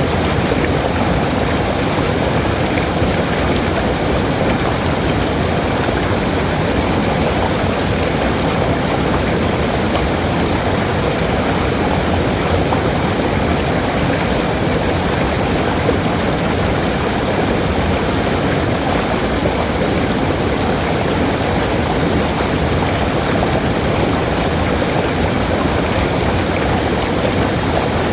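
Waterfall rushing: a steady, unbroken roar of falling water, heaviest in the low and middle range.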